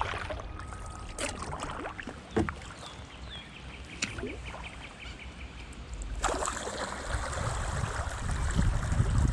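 Sea kayak being paddled: paddle strokes in the water with a few sharp knocks. A louder rush of water and wind comes in from about six seconds in.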